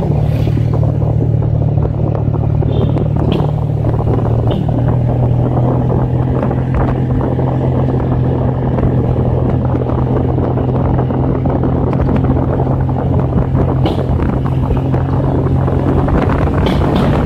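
Motorcycle engine running steadily while riding, its note stepping up slightly about four seconds in, with wind buffeting the microphone.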